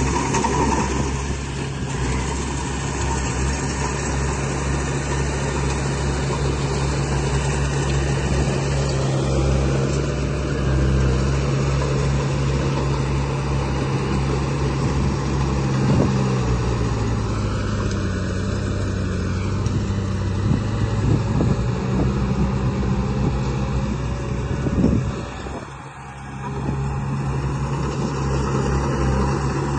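Vehicle engine running steadily with a low hum. Partway through its pitch sags and then recovers. Near the end a short knock comes, and then the sound briefly drops away before resuming.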